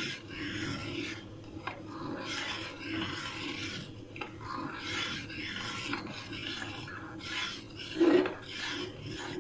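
A spoon scraping round the bottom of a pan in repeated strokes, about one a second, stirring mirror glaze as it thickens on the stove.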